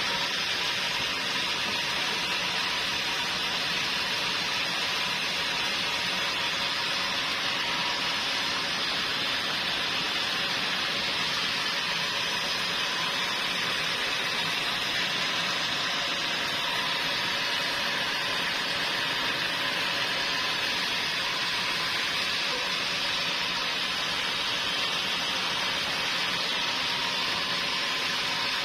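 Sawmill machinery running steadily: an even, unbroken hiss with a faint steady hum under it.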